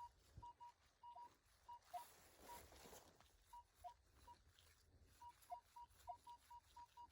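Minelab metal detector beeping over a buried target: a string of short, high, steady beeps at uneven intervals, with a few lower tones among them. It is a loud, solid, repeatable signal, which the detectorist takes for something big and brass.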